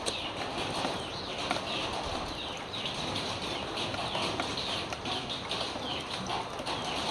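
Many high chirps from birds, repeated falling chirps without a break, over a steady background hiss.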